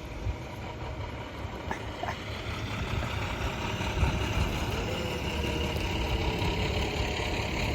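Vehicle engine running steadily with a low rumble, slowly growing louder.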